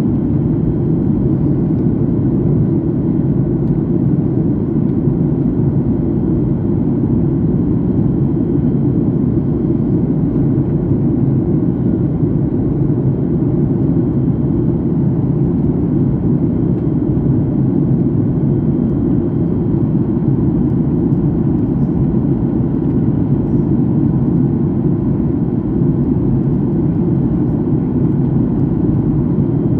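Steady cabin noise of an airliner in flight, heard from inside the passenger cabin: the low, even roar of the jet engines and air rushing past the fuselage, unchanging throughout.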